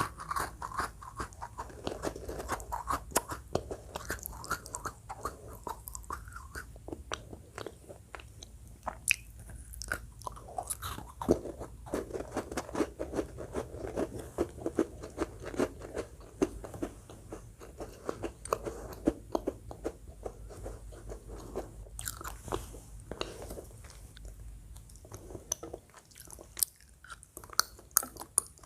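Close-miked mouth sounds of a person chewing and biting food: a dense, steady run of wet clicks and crunches, with a few louder sharp snaps scattered through.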